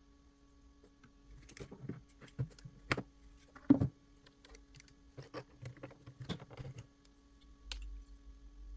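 Irregular clicks and knocks of hard plastic parts of a robot vacuum being handled and taken apart, the loudest knock about four seconds in, over a faint steady hum.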